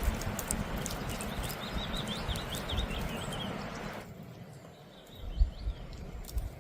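Outdoor ambience: a steady rushing noise with scattered clicks that cuts off abruptly partway through, and a bird chirping a quick run of short notes over it about a second in.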